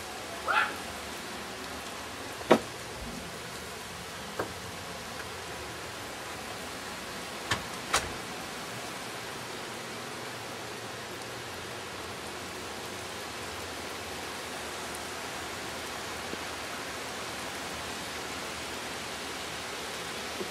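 Heavy rain pouring down, a steady hiss of rainfall, with about five sharp knocks in the first eight seconds.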